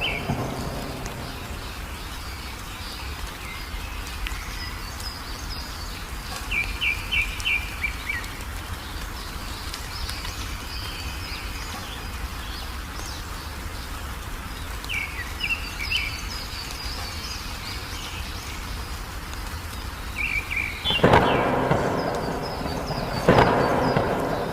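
Wild songbirds chirping in short repeated trills over a steady rain background, with two sudden loud claps of thunder near the end.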